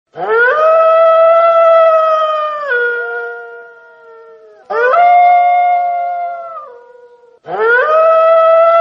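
Wolf howling: three long howls, each sliding up at the start, holding a steady pitch for about two seconds, then dropping to a lower note as it fades.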